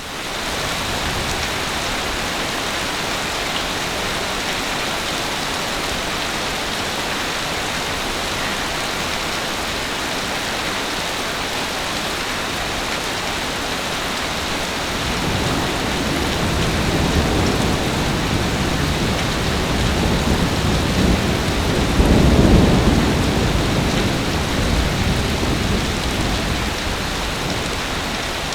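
Heavy rain falling in a steady hiss. About halfway through, a low roll of thunder builds, peaks about three-quarters of the way in, then fades.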